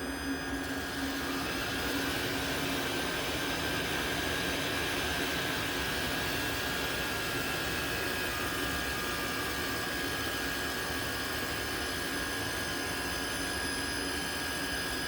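Diesel heater blower fan running on 12 volts applied directly: a steady rush of air with a whine. The owner says it is slowing down dramatically and suspects a short in the fan motor.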